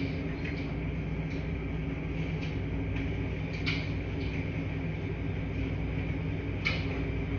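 Washing machines running with a steady low hum, with a few light, irregular clicks and knocks over it.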